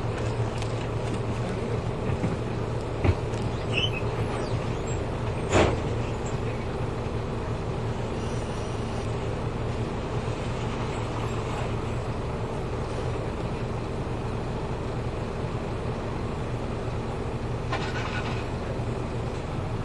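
Route bus running, heard from inside the cabin: a steady engine drone with road noise. Two sharp knocks come about three and five and a half seconds in, the second louder, and a faint rattle comes near the end.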